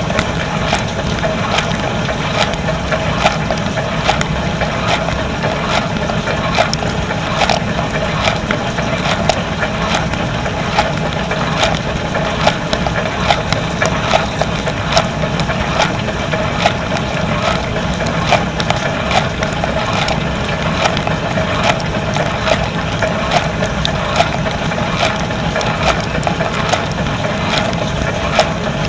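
Dishwasher running its wash cycle, heard from inside the tub: a steady pump hum and spraying water, with frequent small clicks and knocks.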